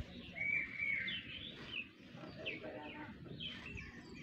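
Small birds chirping: a short held note, then a run of quick falling chirps.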